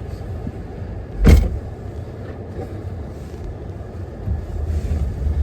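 A car's steady low engine and road rumble, with one sharp thump a little over a second in.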